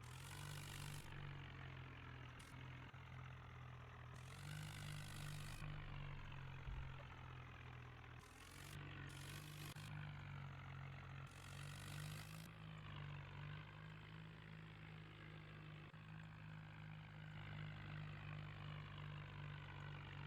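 Mahindra Arjun tractor's diesel engine running steadily, revved up and let back down several times.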